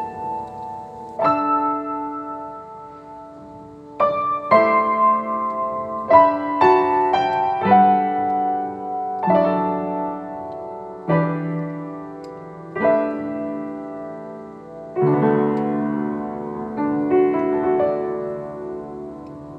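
Slow, gentle solo piano music: chords and single notes struck every second or two, each left to ring and fade.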